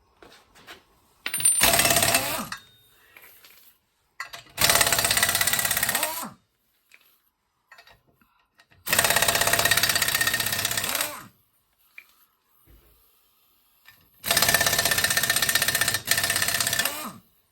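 Impact wrench hammering in four separate bursts of one to three seconds each, spinning the lug nuts off a car's front wheel.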